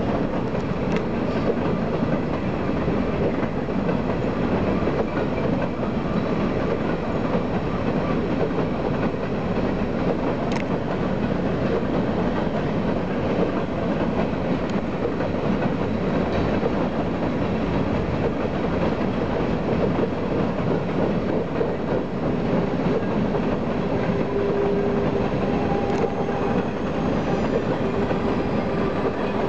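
Coal train's hopper cars rolling steadily past, a continuous rumble and rattle of steel wheels on the rails. Faint wheel squeal creeps in near the end.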